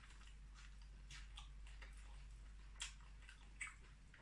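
Near silence with a few faint, irregular mouth clicks and smacks from quiet chewing.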